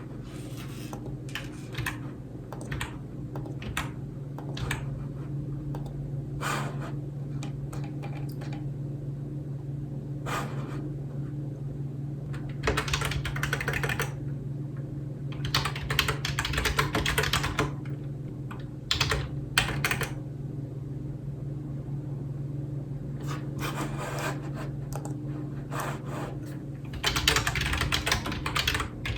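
Typing on a computer keyboard: scattered single keystrokes, then bursts of fast typing separated by pauses, with a dense run near the end. A steady low hum sits underneath.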